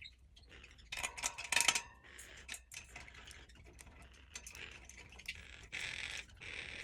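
Small clicks and ticks of a screw and metal bird-cage parts being handled as the screw is worked in, with a cluster of clicks about a second in and a short scraping rub near the end.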